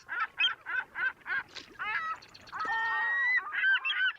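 Birds honking: a quick run of short honks, then a longer drawn-out call about three seconds in, and more short honks near the end.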